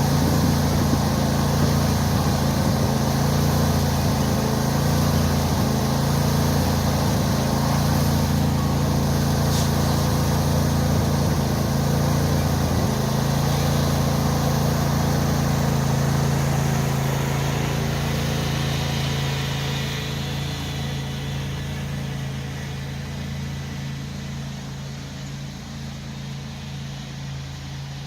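Tractor engine running steadily, growing gradually fainter over the last ten seconds or so.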